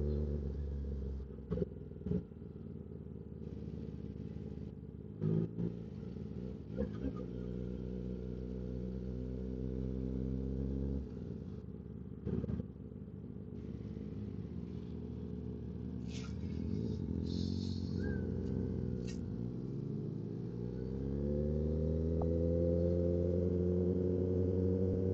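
Kawasaki ZX-10R sport bike's inline-four engine running under the rider, holding a steady note, easing off about halfway through, then revving up as the bike accelerates near the end. A few short knocks come early on.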